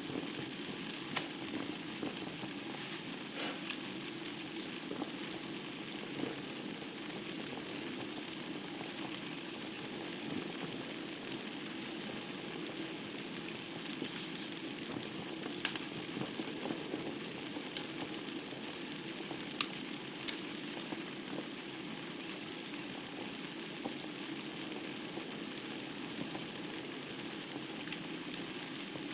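Wood fire burning in a fireplace: a steady hiss and crackle with scattered sharp pops, a few of them louder than the rest.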